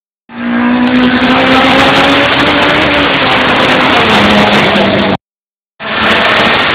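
Race car engine running hard at high revs as the car comes up the street, its pitch sinking slowly. The sound cuts out completely for a moment about five seconds in, then the engine noise returns.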